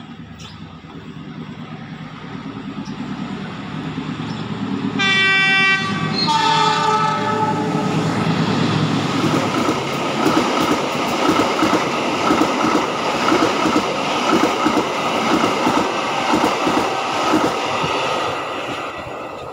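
KAI diesel-electric locomotive hauling a passenger train as it approaches. Its engine runs and grows louder, and about five seconds in it sounds its horn in two notes, one after the other. Then the carriages pass close by with loud, rhythmic clatter of wheels over the rail joints.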